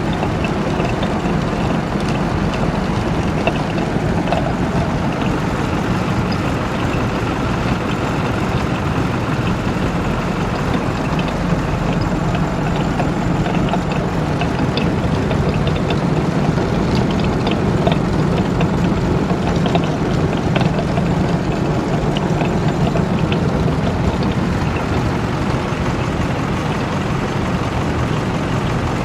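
Niva combine harvester running steadily, with knocking from its worn ground-drive variator that is due for repair; short clicks come and go, thickest in the middle.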